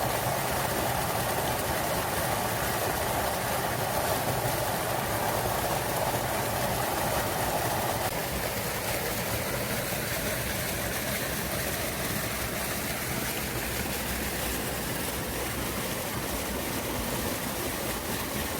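Small waterfall splashing and rushing steadily into a mountain stream; the splash grows a little less bright about eight seconds in.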